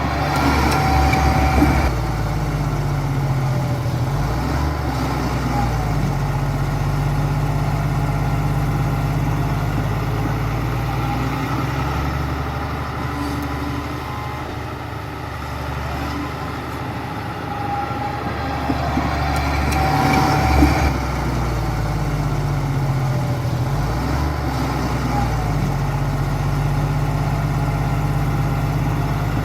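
Bulldozer's heavy diesel engine working, its pitch shifting up and down with the load, with two louder, harsher surges: one at the start and one about twenty seconds in.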